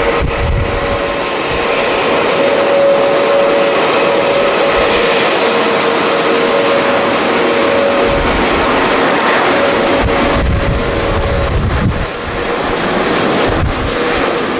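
Jet airliner engines running, a steady whine over a broad rush of noise, with strong wind gusting on the microphone, heaviest about eight to twelve seconds in.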